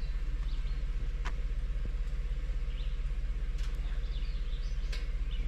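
Vehicle engine idling steadily with an even low pulse, while birds chirp now and then.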